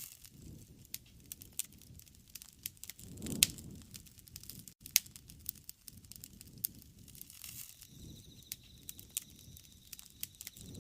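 Wood fire burning: irregular sharp crackles and pops over a soft low rush of flame, with one louder pop about three and a half seconds in.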